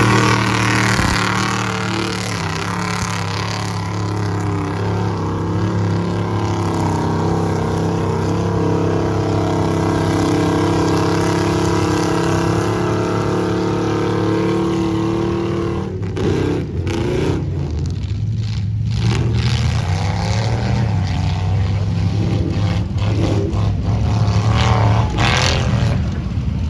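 Off-road vehicle engine running at high, steady revs, then revving up and down with shifting pitch for the last ten seconds or so.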